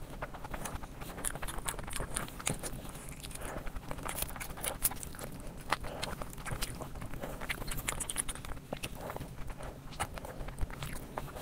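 Close-miked chewing and wet mouth sounds of a person eating fried rice and sauced chicken lollipops by hand, with irregular lip smacks and small clicks throughout.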